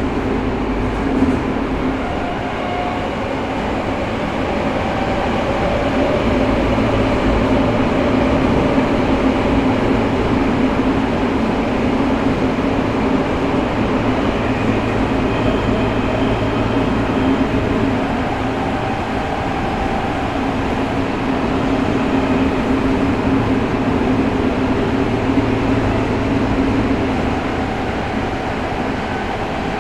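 Tokyo Metro 05 series subway train running between stations, heard from inside the car. A steady rumble of the wheels on the rails carries a steady hum from the Mitsubishi IGBT inverter-driven traction motors.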